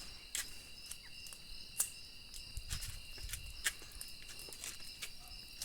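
Night insects such as crickets trilling steadily and high, with scattered sharp crackles and pops from a campfire that is just catching.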